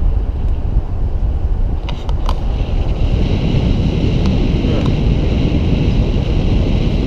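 Wind buffeting the microphone over the steady rumble of a vehicle driving along, with a few light clicks about two seconds in.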